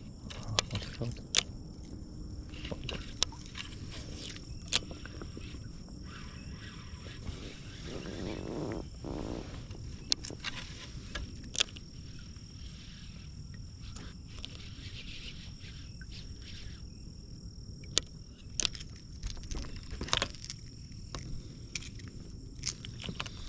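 Insects chirring steadily in a high, even buzz, with scattered sharp clicks and knocks from fishing gear being handled on a small inflatable boat.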